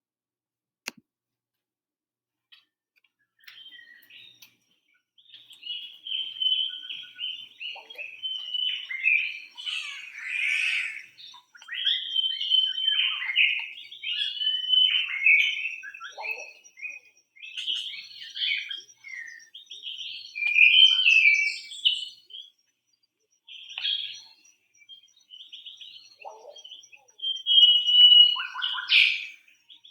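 Birds chirping and calling, many short overlapping chirps and warbles starting a few seconds in, with a faint steady high tone behind them.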